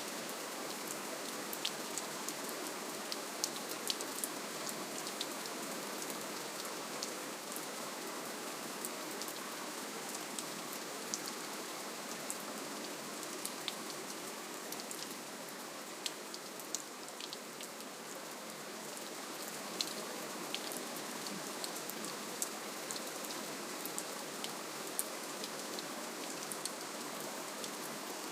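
Steady gentle rainfall: a soft, even hiss of rain with many separate drops ticking sharply on a surface.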